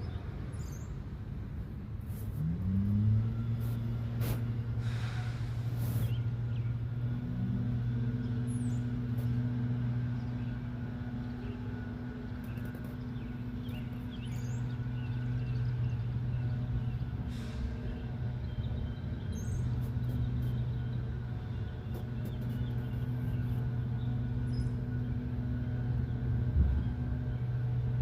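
A motor hums steadily; a couple of seconds in its pitch rises, then it holds. Short high bird chirps sound now and then over it.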